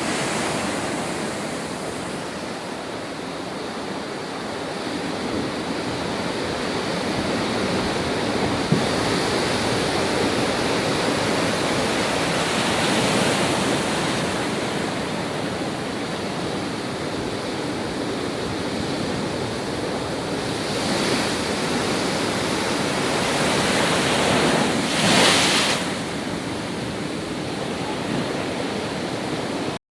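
Rough sea surf washing continuously, swelling and easing, with one louder surge near the end.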